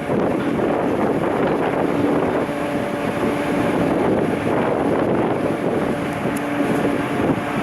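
Wind buffeting the microphone over the steady low drone of a large car ferry, with a faint hum that comes and goes.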